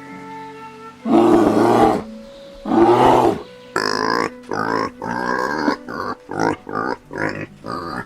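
Two long roars from a big cat over background music, then a quick run of short rasping animal calls, about three or four a second.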